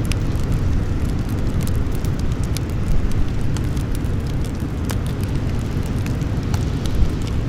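Campfire burning with irregular sharp crackles and pops, several a second, a few louder snaps about 3, 5 and 7 seconds in, over a steady low rumble.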